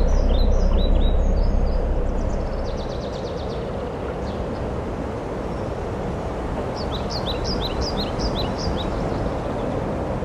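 Outdoor ambience: a steady background rush with small birds chirping, a flurry of quick chirps at the start and another about seven seconds in.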